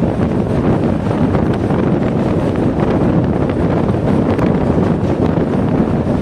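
Steady, loud rumble of a passenger train running across a railway bridge, mixed with wind buffeting the microphone.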